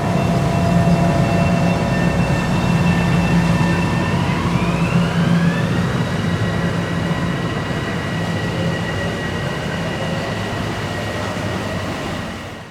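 Train running with a steady low hum and a whine of several tones. About four seconds in, part of the whine rises in pitch, then holds steady, as the motors take up speed.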